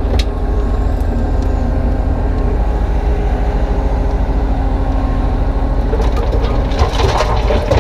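Kubota U35-3 mini excavator's three-cylinder diesel engine running steadily under working load, with a sharp click just after the start. From about six seconds in, scraping and clattering as the bucket works broken concrete.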